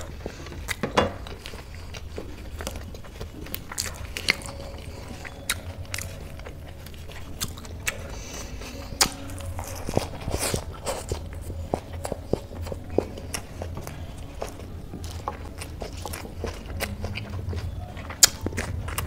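Close-miked chewing and biting of a mouthful of food with crisp lettuce, with scattered sharp crunchy clicks and wet mouth sounds. A low steady hum runs underneath.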